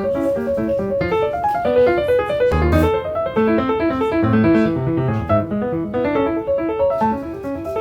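Background piano music: a light, quick melody of short notes over a bass line.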